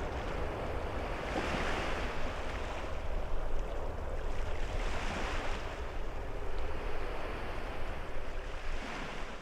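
Sea waves washing onto the shore, swelling about a second and a half in and again about five seconds in, with wind buffeting the microphone.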